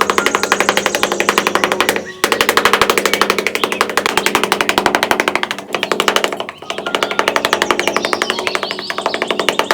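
A machine rattling loudly with rapid, even strokes, about ten a second, over a steady hum. It stops briefly about two seconds in and again past the middle, then starts up again.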